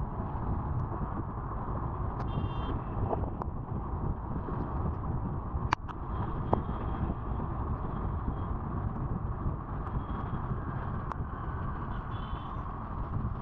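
Steady wind rush and road noise from a moving Honda Activa scooter, heavy at the low end, with a few sharp clicks and two short high-pitched tones, one a couple of seconds in and one near the end.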